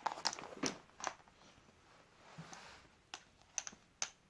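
Light clicks and taps of plastic toys being handled: several in quick succession at the start, a soft rustle in the middle, and a few more clicks near the end.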